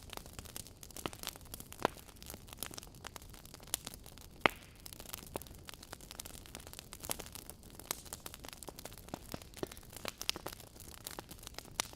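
Wood fire burning in a fireplace: irregular crackles and pops over a soft hiss, with a sharp louder pop about two seconds in and another, the loudest, about four and a half seconds in.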